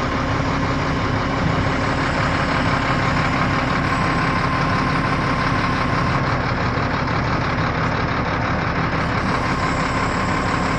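A crane's engine running steadily, with a thin steady whine over the engine note, during a roof-truss lift.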